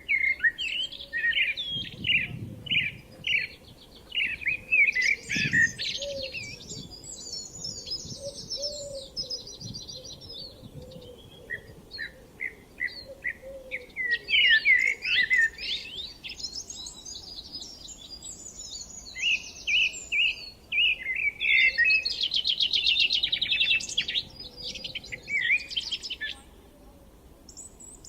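Songbirds singing in a spring chorus: a continuous run of varied high chirps and phrases, with a fast trill a little past the middle.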